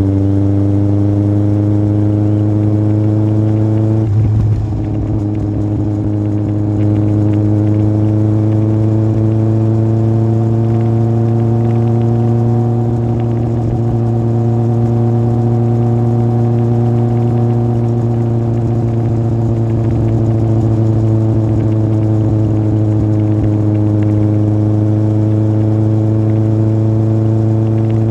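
Yamaha Fazer 1000's inline-four engine running through an aftermarket MIVV exhaust while riding, holding a fairly steady note that rises and falls slowly with the throttle. There is a brief break in the note about four seconds in.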